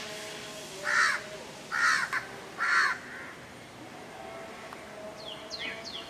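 Three harsh bird calls about a second apart, then a few short, quick falling chirps near the end.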